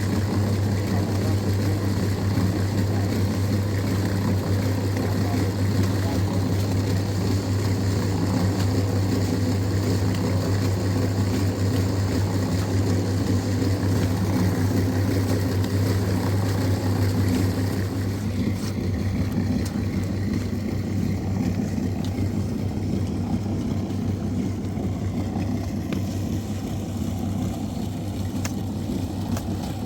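An engine running steadily with a low hum; the level eases slightly about two-thirds of the way through.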